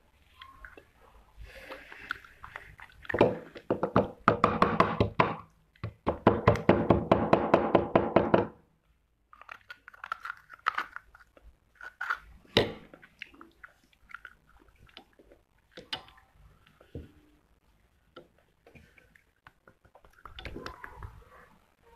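Close-up crunching and chewing of dry clay, in two long spells of dense crunching a few seconds in, then sparse clicks and taps.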